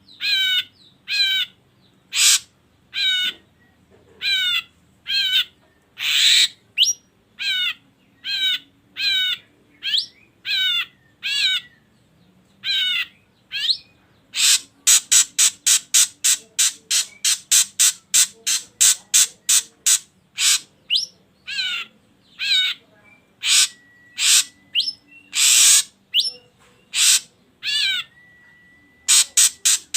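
Ashy drongo calling over and over: short warbling, wavering whistled notes about one every 0.7 s, with a few harsh, rasping notes mixed in. About halfway through the calls turn into a fast run of short, sharp notes, about three a second, for several seconds.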